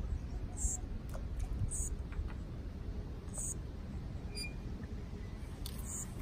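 Outdoor ambience: a steady low rumble like wind on the microphone, with short high-pitched chirps about every second or two.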